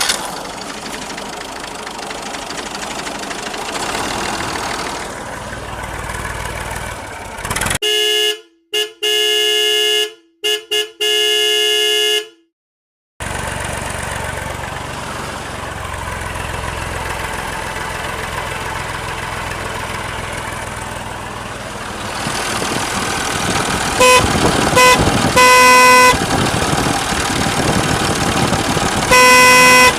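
Toy RC car running with a steady whirr, broken by several short electronic horn-like toots about eight seconds in, and more short beeps later and near the end.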